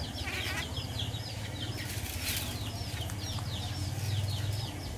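Bird chirping in a rapid, even run of short high chirps, several a second, over a low steady rumble.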